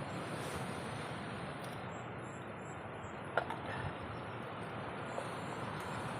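Steady rain hiss, with one sharp tap a little past halfway.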